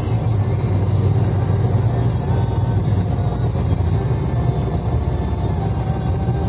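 Steady low rumble of a car's engine and tyres while driving along an expressway, without change in pitch or level.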